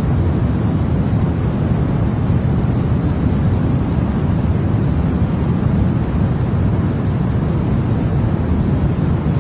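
Continuous white-noise track: a steady, unchanging rushing hiss, heavier in the low range than in the highs, with no breaks or events.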